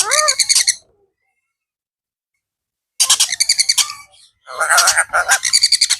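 Blue Indian ringneck parakeet calling in harsh, buzzy squawks that glide up and down in pitch. One short burst at the start, then after about two seconds of quiet two longer bursts.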